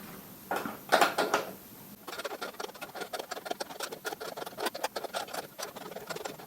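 Hand tools on metal: a few sharp clanks about a second in, then a long run of rapid, uneven small clicks.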